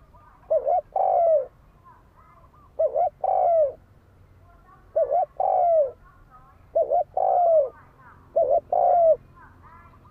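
Spotted dove cooing: five repeated phrases of two short coos followed by a longer falling coo, about every two seconds.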